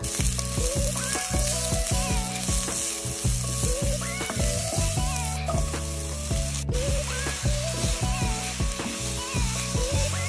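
Oil sizzling steadily in a nonstick frying pan as diced onion and chopped luncheon meat fry in it. The sizzle cuts in abruptly at the start, with background music playing over it.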